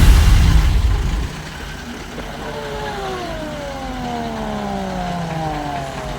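Heavy vehicle engine: a loud low rumble for about a second, then quieter running with a whine that slowly falls in pitch over the last few seconds.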